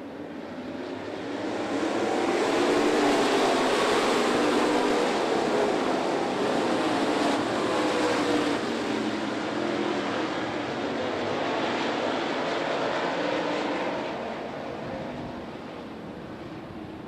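Dirt late model race cars' V8 engines running as the field goes by, the roar swelling from about a second in and easing off near the end.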